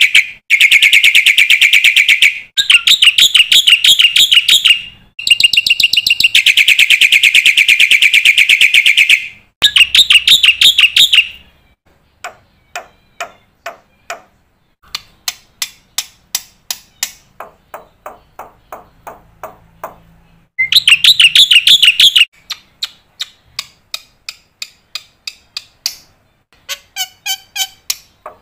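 Black-winged myna (jalak putih) singing a loud, fast song packed with mimicked phrases: long, rapid high trills, then runs of quick sharp notes, and a burst of trilling again about two thirds of the way through.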